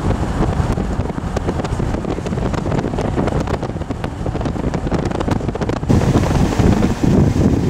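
Wind buffeting the microphone, a dense low rumble that gets louder and gustier about six seconds in.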